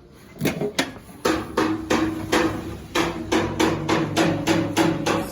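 Rapid, even knocking, about four sharp strikes a second, over a steady low tone.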